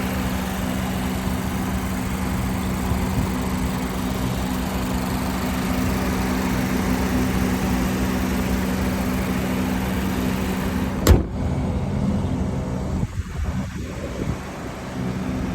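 Car engine idling steadily, a constant low hum. A single sharp click comes about eleven seconds in, after which the sound is a little quieter and duller.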